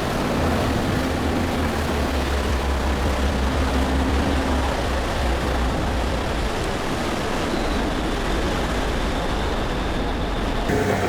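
Steady low rumble and rushing noise of a passenger ferry under way.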